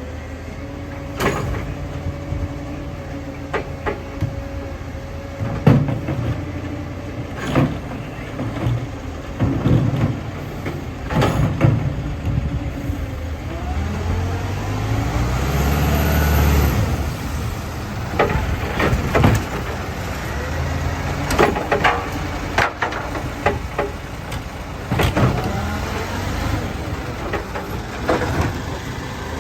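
Garbage truck's diesel engine running, with repeated clanks and bangs of bins and metal throughout. About halfway through, the engine revs up and back down.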